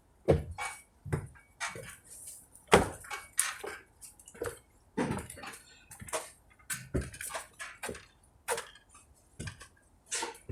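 A string of irregular light knocks and clicks, a few a second.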